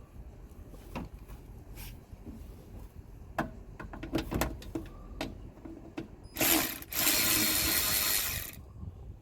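Socket ratchet clicking in short runs and tool knocks while the under-panel bolts come off. A loud, harsh rasp lasts about two seconds near the end.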